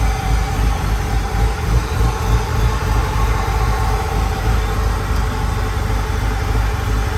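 LS 408 stroker V8 idling steadily with a deep, even pulse, running without a miss on its first start-up.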